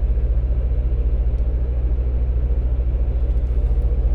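Semi truck's diesel engine running, heard from inside the cab as a steady, low, pulsing rumble.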